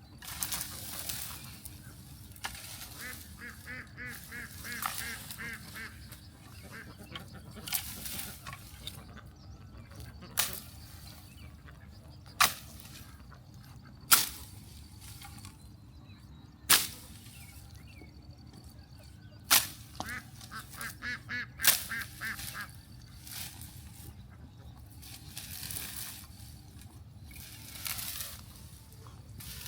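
Muscovy ducks calling in short runs of rapid quacks. In between come several sharp, loud knocks, one every couple of seconds, over a steady low hum.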